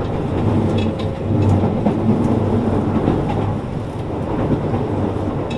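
Cabin running noise of a Shin-Keisei N800 series electric train: a steady rumble of wheels on rail with a few faint clicks, and the car's air conditioning running.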